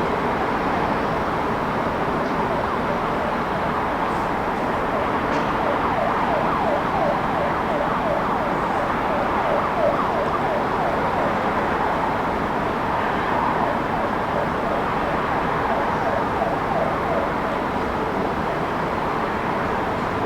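Steady city traffic noise, with an emergency-vehicle siren in the distance yelping in fast, repeated sweeps of pitch from about five seconds in until about twelve seconds in.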